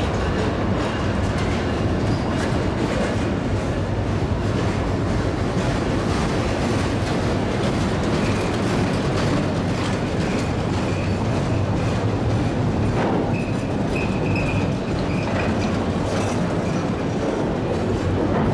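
Empty autorack freight cars rolling past close by on street-running track: a steady rumble and rattle of steel wheels on rail. A faint, high wheel squeal comes and goes in the second half.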